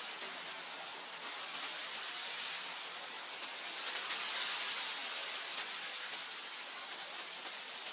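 Wind blowing across grassland as a steady hiss, swelling into a gust about halfway through and easing back.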